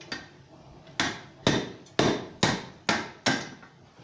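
Blacksmith's hammer striking hot steel on an anvil while bending a bar into a ring. After a pause of about a second come six blows, about two a second, each with a short metallic ring.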